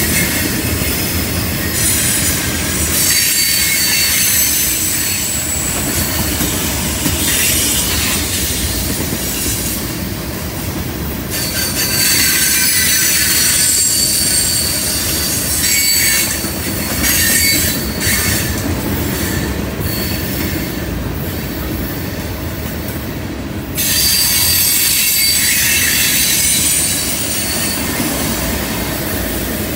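Freight train of tank cars rolling past: steel wheels rumbling on the rails, with high-pitched wheel squeal coming and going in stretches of several seconds.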